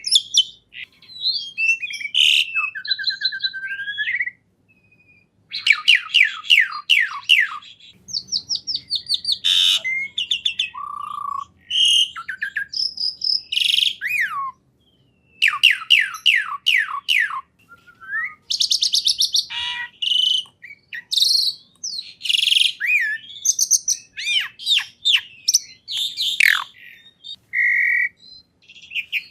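A songbird singing a varied, loud song: runs of fast repeated downward-sweeping notes and trills mixed with short whistles and chirps, broken by brief pauses.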